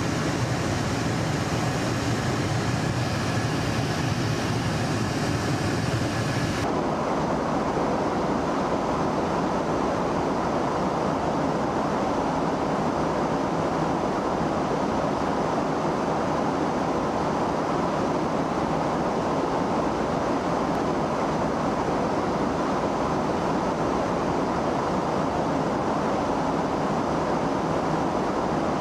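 Steady, loud roar of F-35 fighter jet engines. About seven seconds in it changes abruptly from a deep rumble with high hiss to a duller, mid-pitched roar.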